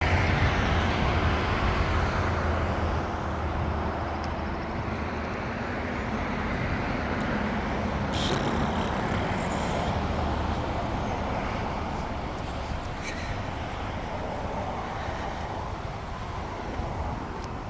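Car driving at low speed, its engine hum and tyre noise running steadily.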